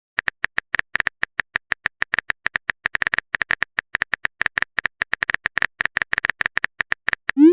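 Phone keyboard typing sound effect: a rapid, slightly uneven run of short clicks, about eight a second. Right at the end a quick rising swoop follows, like a message being sent.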